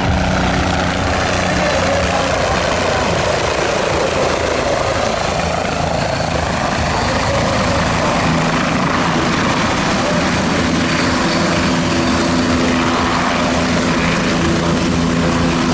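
Aircraft engine running close by: a loud, steady drone with a rushing noise that is heavier in the middle.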